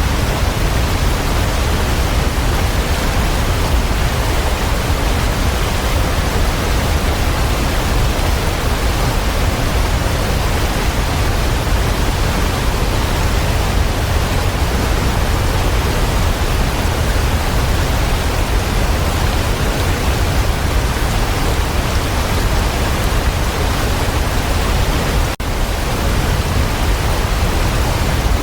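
Waterfall: a steady, even rush of falling water, heavy in the low end, with one momentary dip in level near the end.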